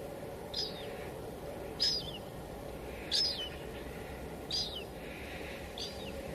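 Steady patter of light drizzle on a window, with a bird repeating a short, high, falling call about every second and a half, five times.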